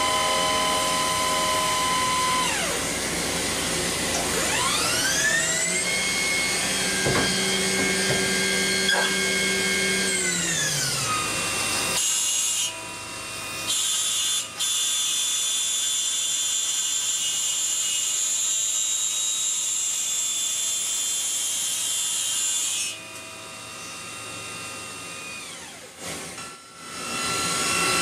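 Five-axis CNC machining centre running, its spindle whining in several steady tones. The pitch sweeps up about four seconds in and falls back around ten seconds. It then holds a high steady whine and winds down near the end.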